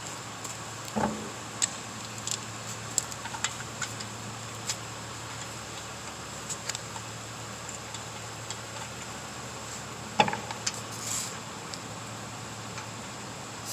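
Scattered metallic clicks and clinks with two louder knocks, about a second in and about ten seconds in, as a car wheel is refitted over the brake and its lug nuts handled.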